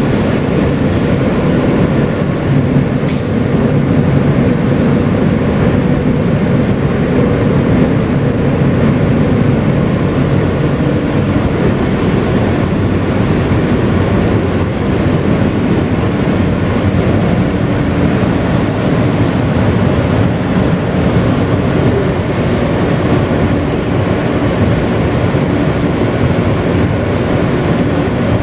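R160B subway car with Siemens propulsion, heard from inside the car while running: a steady loud rumble of wheels on rail and running gear, with one sharp click about three seconds in.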